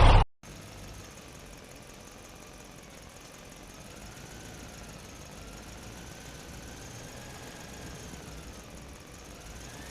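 Engine idling steadily: a low rumble with a faint whine that drifts slowly up and down in pitch.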